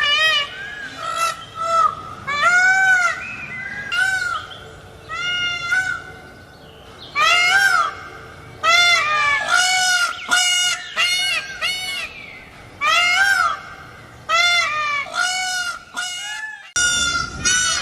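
Indian peafowl calling over and over in quick bouts, each call a loud, high wail that rises and falls in pitch. Near the end the sound cuts abruptly to a different recording.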